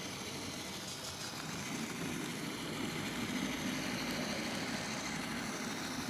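N scale model freight train running on the layout, its sound-equipped diesel locomotive giving a steady engine rumble that builds slightly about two seconds in.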